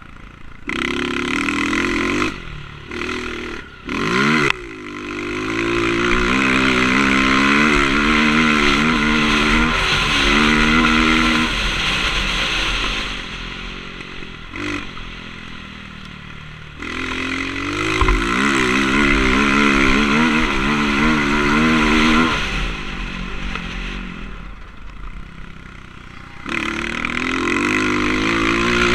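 Motocross bike engine revving hard and easing off as the rider works the throttle, the pitch rising and falling repeatedly. Quick blips early on, then long pulls, with the revs dropping back for a few seconds twice.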